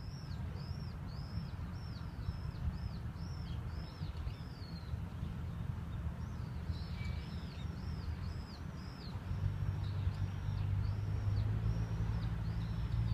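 A bird calling a fast series of short, high, arched notes, about two a second, in two runs with a short pause near the middle. Under it is a low outdoor rumble, joined about two-thirds through by a vehicle's steady low engine hum.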